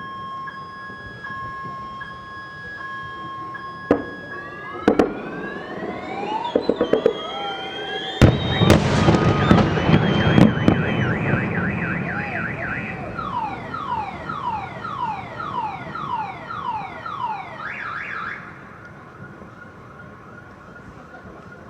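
A car alarm cycling through its patterns: alternating two-tone beeps, then fast warbles, a run of falling whoops about two a second, then a steady tone. Firework bangs go off about four and five seconds in, then a quick crackle, then a loud volley of bangs and crackling about eight seconds in.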